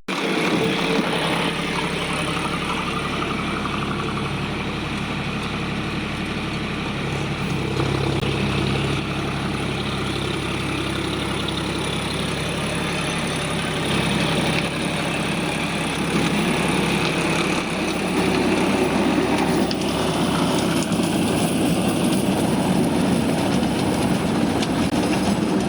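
An engine running steadily under load, a little louder in the last third.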